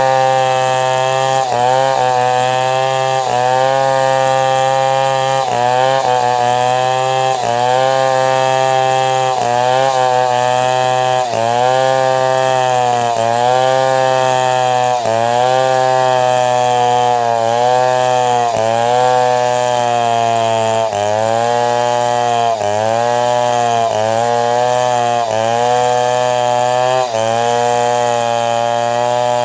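Chainsaw running at full throttle while ripping lengthwise through a log to cut boards. Its engine note sags briefly every second or two as the chain bites into the wood, then picks back up.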